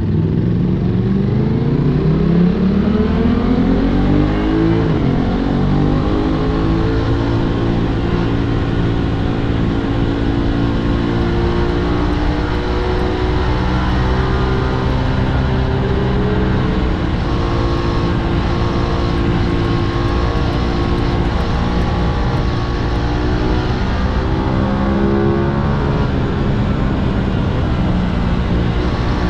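Aprilia RS 660 parallel-twin sport bike engine heard from on board, climbing steadily in pitch as it accelerates for the first few seconds. It then holds fairly steady revs that shift up and down with small changes in speed, over a steady rush of wind noise.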